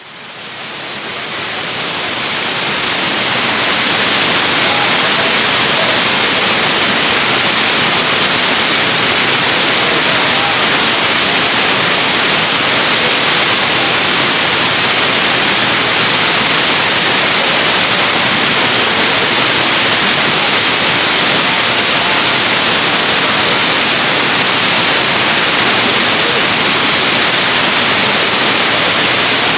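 Waterfall rushing: a steady, dense hiss of falling water, fading in over the first few seconds and then holding level.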